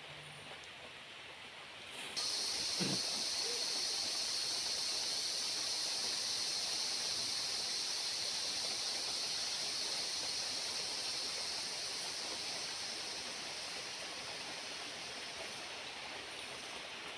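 Cicadas start up suddenly about two seconds in, a loud, steady high-pitched drone that fades slowly toward the end. Before it there is only a faint forest hiss.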